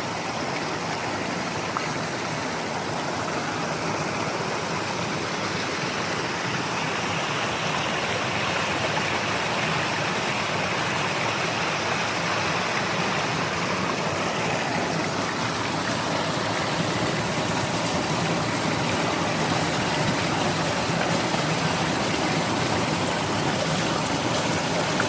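Forest stream flowing: a steady rush of water that grows slightly louder through the second half.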